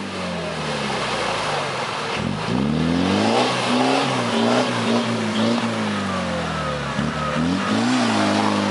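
Land Rover Series One challenge truck's engine revving up and down repeatedly under off-road load, the revs falling away, then climbing sharply a little over two seconds in, with several more rises and dips after.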